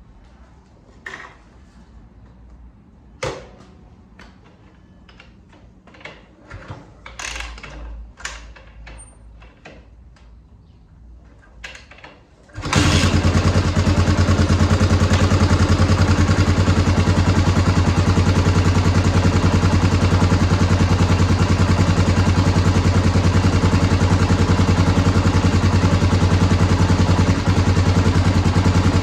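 Scattered clicks and knocks, then about halfway in the Honda XR650R's single-cylinder four-stroke engine starts abruptly and runs steadily through a DG V2 exhaust with the quieter insert fitted.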